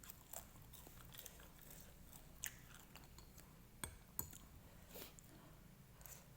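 Close-miked eating sounds: a person chewing and slurping noodles, with scattered wet mouth clicks and smacks.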